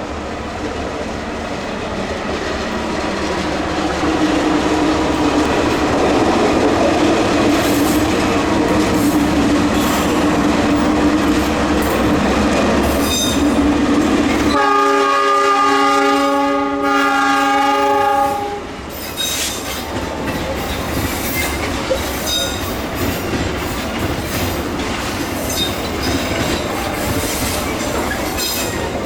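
Diesel-hauled Indonesian passenger train approaching and passing: the locomotive's rumble builds to a peak, then a chord horn sounds for about four seconds halfway through. After the horn comes the clatter of wheels over rail joints as the carriages run past.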